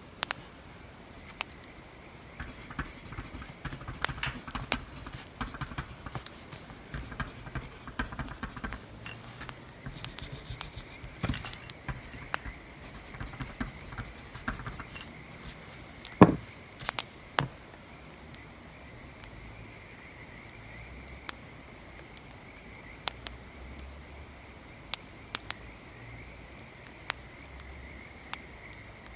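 Wood fire crackling, with scattered sharp pops. For the first half it sits under scratchy writing on paper, and there is a single louder knock about sixteen seconds in.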